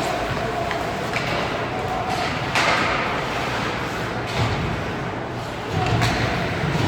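Ice hockey game heard in a rink: a steady din of crowd and arena noise with scattered sharp knocks and thuds of puck, sticks and boards, and a louder noisy rush about two and a half seconds in.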